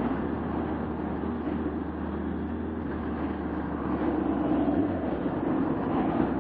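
Steady engine and road noise of a car on the move, heard from inside the cabin, a little louder from about four seconds in.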